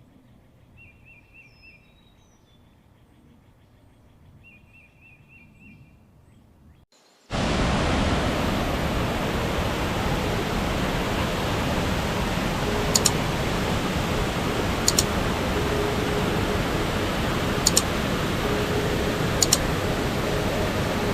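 Quiet rainforest ambience with a bird giving two short trills. About seven seconds in, an abrupt cut brings a loud, steady rush of water, broken by four brief sharp ticks.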